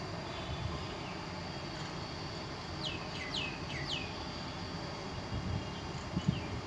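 A parrot giving four short chirps in quick succession, each falling in pitch, about three seconds in, over a steady background hiss.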